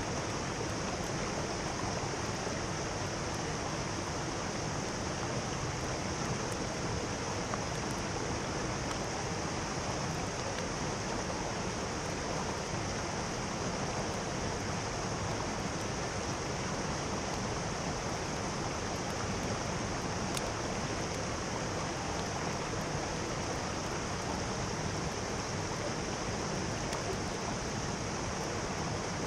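Mountain stream rushing over rocks, a steady even roar of flowing water.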